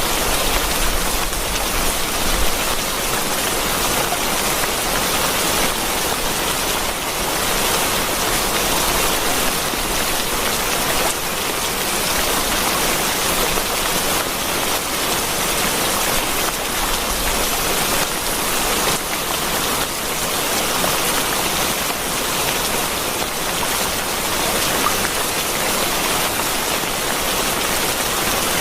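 Steady rain falling, an even, dense hiss of many drops with no let-up.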